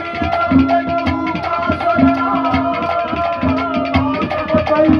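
Haryanvi ragni folk accompaniment playing between sung lines: drums beating a steady rhythm, some strokes ringing on a low tone, under a sustained melody line that bends in pitch.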